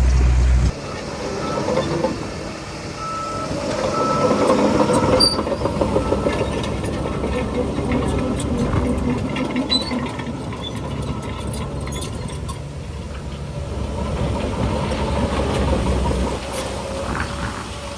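Diesel engines of heavy earthmoving machinery, a bulldozer and a dump truck, running under load, with a truck's reversing alarm beeping a few times a few seconds in.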